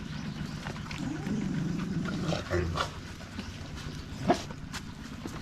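A dog vocalising low and wavering for a couple of seconds over a steady low hum, with one sharp knock about four seconds in.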